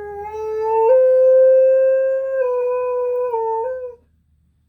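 A dog howling: one long howl that slides up quickly in pitch, holds with a few small steps, and stops about four seconds in. The howl is set off by a tornado siren test.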